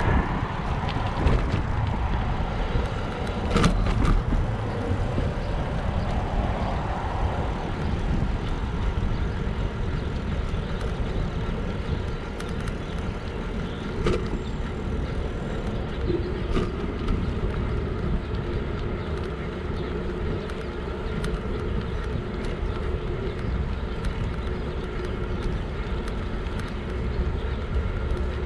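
Steady low wind rumble on the microphone and road noise while riding an electric bike, with a few scattered clicks.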